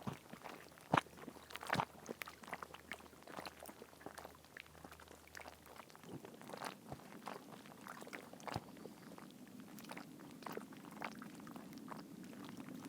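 Sausages and vegetables frying in a pan, sizzling with irregular sharp spits and crackles.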